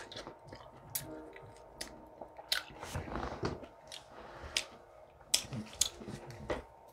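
Close-up chewing and mouth sounds of a person eating a mouthful of food, with irregular sharp clicks throughout.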